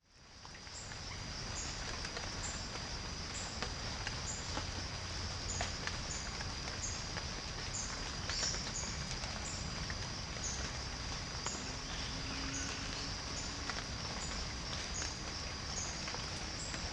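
Outdoor natural ambience, fading in: a steady high-pitched drone with a short high chirp repeating about every three-quarters of a second, and occasional faint clicks.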